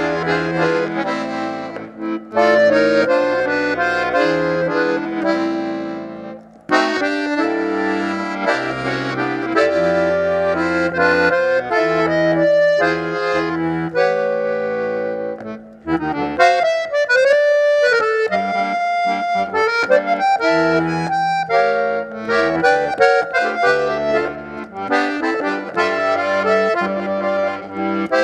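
Accordion (sanfona) playing an instrumental piece, a melody of quick notes over sustained bass notes, breaking off briefly twice, about six and sixteen seconds in.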